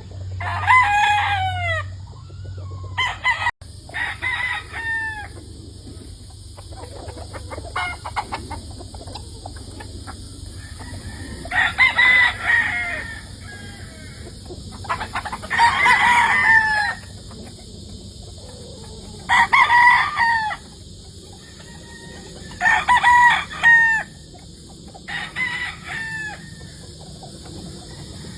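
Game roosters crowing one after another, about eight crows spaced a few seconds apart, each lasting a second or so. A low hum sounds under the first few seconds and stops abruptly.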